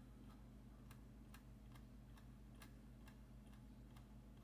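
Near silence: faint, regular ticking a little over twice a second, over a steady low electrical hum.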